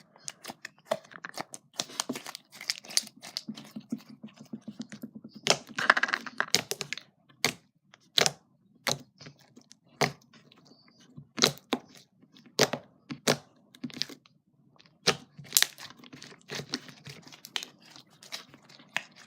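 Slime being squeezed and stretched by hand, giving sharp, irregular clicks and pops, with stretches of denser crackling about a third of the way in and near the end.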